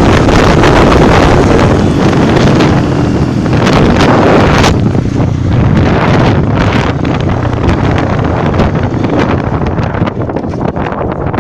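Heavy wind buffeting the microphone of a moving motorcycle, with the bike running beneath it. It eases a little about halfway through and turns more crackly.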